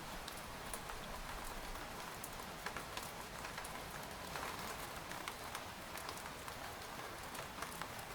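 Steady rain falling on a tent, an even patter with many scattered sharper ticks of single drops hitting the fabric.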